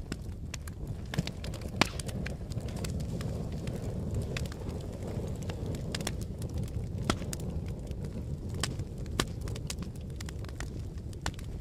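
Fire burning with a steady low rumble and frequent sharp, irregular crackles and pops, a few of them louder, about two seconds in and again near the middle and later.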